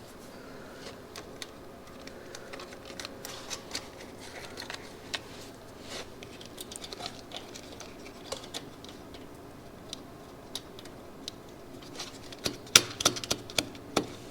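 Scattered light clicks and taps of small hand tools and metal engine parts being handled, with a run of louder clicks near the end.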